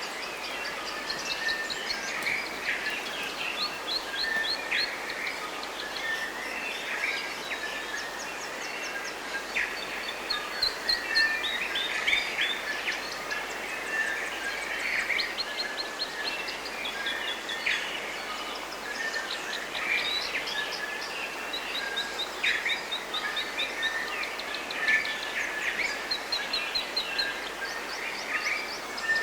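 A chorus of forest birds singing and calling, with many overlapping chirps and fast trills over a steady background hiss.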